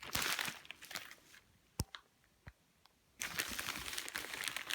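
Packaging wrap being handled and crinkled during unwrapping, in two stretches separated by a pause of about two seconds that holds a couple of sharp clicks.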